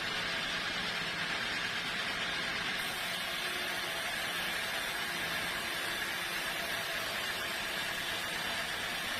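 Sawmill machinery running steadily, an even, unbroken noise with no cuts or impacts.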